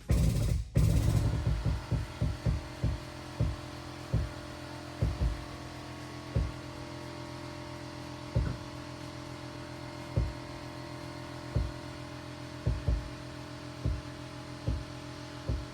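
A few loud knocks in the first second, then a steady mechanical hum with short low thuds at uneven intervals, roughly one a second.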